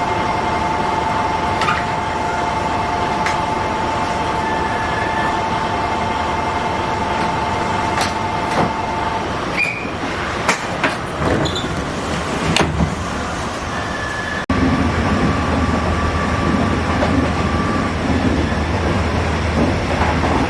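Train running with continuous rail and running noise. Two steady tones sound for the first half and a few sharp clicks come in the middle. About fourteen seconds in the sound changes abruptly to a louder, steadier running noise with a low hum.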